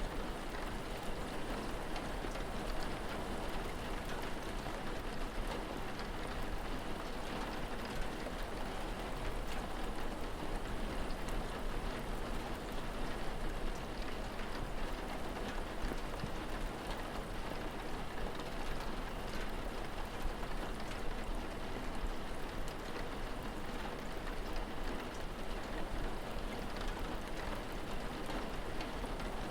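Steady rain falling, with individual drops ticking here and there over a constant low hum.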